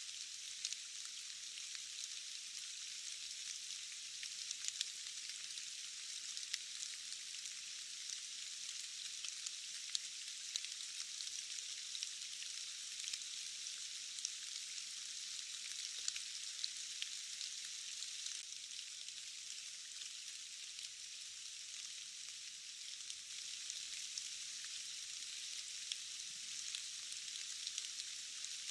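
Steady rain: a dense, even hiss with many small sharp drop ticks scattered through it, and almost no low end.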